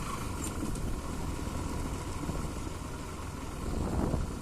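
Bajaj Pulsar NS200 motorcycle's single-cylinder engine running steadily, heard from on the bike, swelling slightly near the end.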